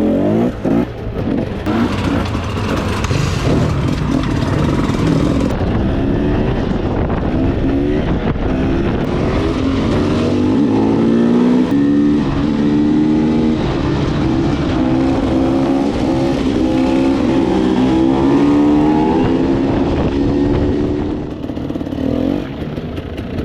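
Dirt bike engine revving unevenly, its pitch rising and falling again and again as the throttle is worked. The engine note drops off near the end.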